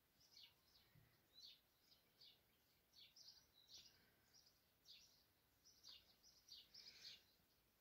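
Near silence with faint, short, falling bird chirps repeating about twice a second.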